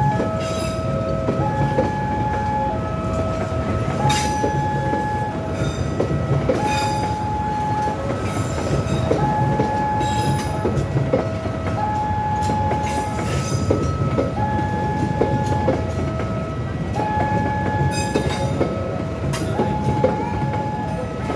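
A passenger train rumbling past, with clicking from the wheels on the rail joints and occasional high wheel squeals. Over it, an electronic two-tone warning alarm alternates steadily between a lower and a higher tone, about two-thirds of a second each, typical of an Indonesian level-crossing alarm.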